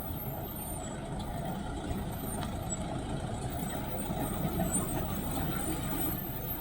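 A heavy engine running steadily, a low rumble.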